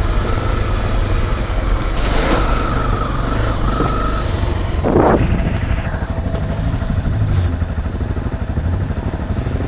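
Dirt bike engine running as it rides slowly along a trail, with a brief blip of revs about five seconds in.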